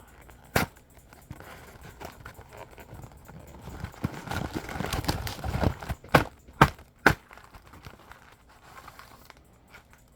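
Snack packaging being handled: a sharp click, then a stretch of rustling and crinkling, then three sharp snaps or taps in quick succession.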